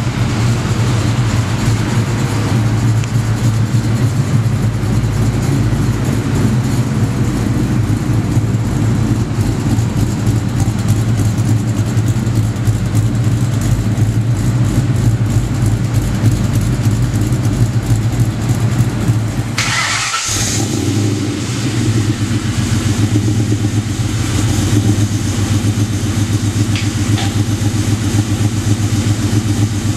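Cammed 4.6-litre V8 of a 2001 Ford Mustang GT running steadily at idle through a full Magnaflow exhaust. About twenty seconds in, the sound cuts to the same engine running on a chassis dyno.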